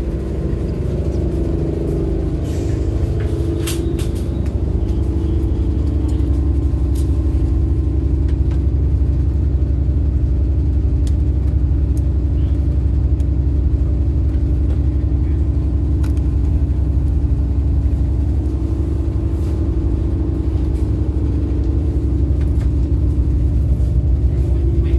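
Passenger train heard from inside the coach as it pulls out of the station: a steady low rumble that grows a little louder over the first few seconds. A few short clicks come two to four seconds in.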